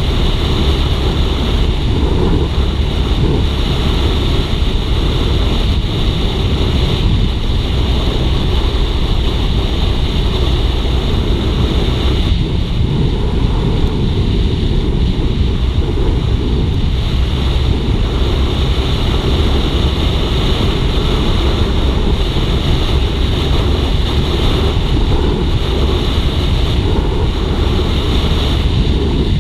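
Wind rushing over the microphone on a moving Suzuki GSX-R150, a steady loud noise with the bike's single-cylinder engine running underneath at an even speed.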